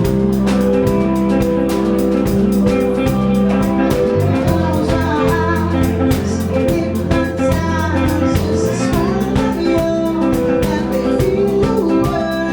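Live band playing a slow blues-jazz song, with electric guitar, bass and drum kit, and a voice singing over it in places.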